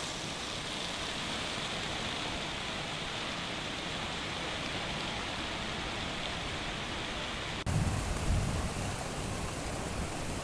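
Heavy rain pouring down in a steady hiss. About three-quarters of the way through, the sound cuts abruptly to a louder stretch with a deep rumbling under the downpour.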